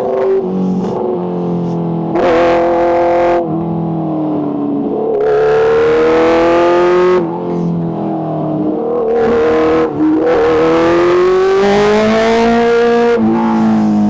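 Kawasaki H2's supercharged inline-four engine revving: the engine note climbs steadily for a second or two, then drops back, several times over, with a hissing rush on top as it pulls.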